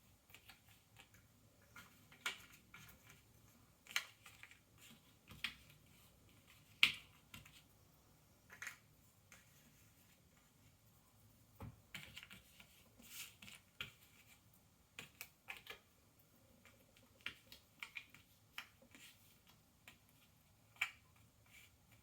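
Jigsaw puzzle pieces being handled and pressed into place on a table: scattered small cardboard clicks and taps at an irregular pace, with the sharpest snap about seven seconds in.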